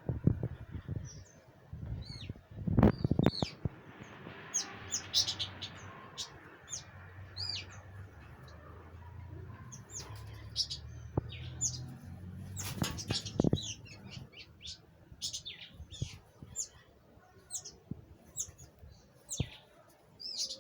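Small birds fighting, giving rapid, sharp chirps throughout, with a few loud fluttering thumps at the start, a few seconds in, and around the middle. A low hum runs underneath for several seconds in the first half.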